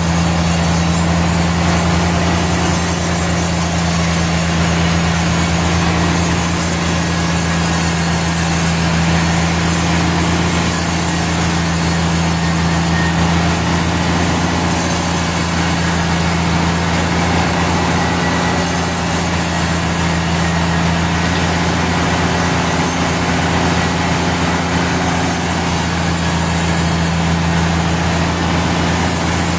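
Sawmill machinery running steadily at constant speed: a loud, even engine hum with hiss over it that does not change.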